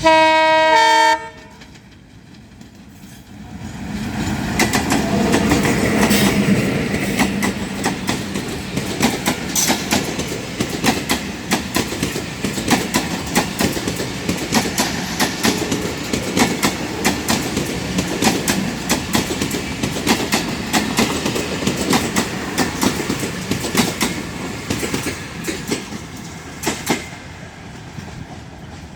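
Train horn sounding loudly for just over a second, then a train passing through the station without stopping: a rising rumble from about four seconds in, with a long run of wheel clicks over the rail joints that eases near the end.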